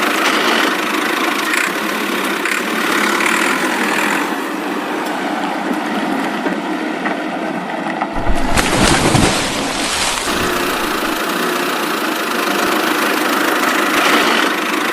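A vehicle engine running steadily. A deeper rumble joins in for about two seconds, some eight seconds in.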